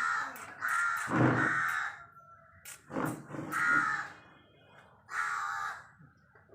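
Crow cawing: about four harsh calls, the longest and loudest about a second in.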